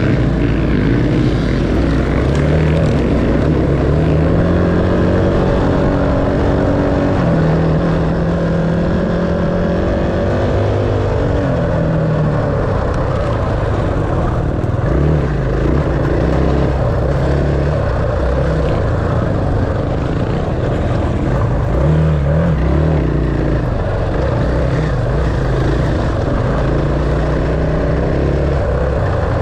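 Dirt bike engine running under way, its pitch climbing and dropping again and again as the throttle opens and closes and the gears change.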